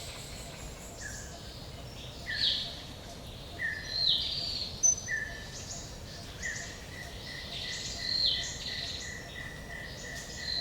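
Forest ambience: several birds calling over a steady low background hiss, with repeated short calls that sweep down in pitch about every one to two seconds and a quick run of short notes from about six seconds in.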